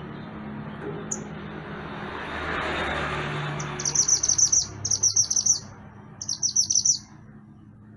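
Mantenan gunung singing: three short, quick bursts of rapidly repeated high, chirping notes in the second half, over a steady low hum.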